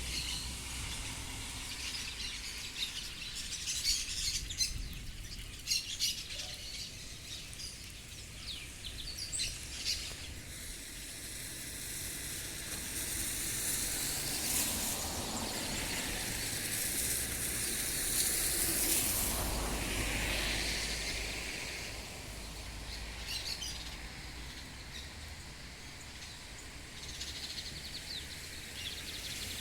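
Birds chirping in short, high calls over a steady hiss of rain, with the chirps thickest in the first ten seconds and again briefly later on.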